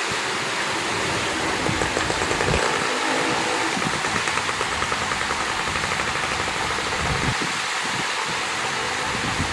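Water flowing out of a small lake: a steady rushing flow.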